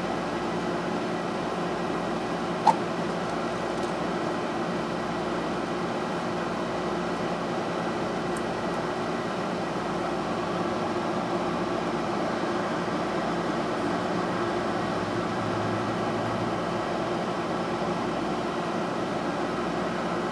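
Steady hum of a running fan, with a single sharp click a little over two and a half seconds in.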